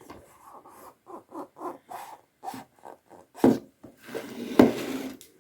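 Headphones being lifted out of their box packaging: irregular rustling and rubbing of the packing, with a sharp knock about three and a half seconds in and a louder one about a second later.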